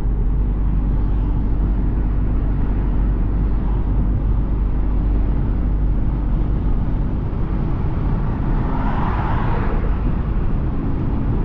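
Tuned Volkswagen Golf R's turbocharged four-cylinder engine running at a steady speed with road and tyre noise, heard from the driver's seat. About nine seconds in, a rushing sound swells briefly and fades.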